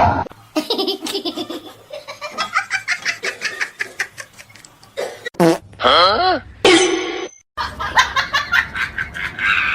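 People laughing hard in quick, repeated bursts, broken off abruptly a couple of times and then starting again.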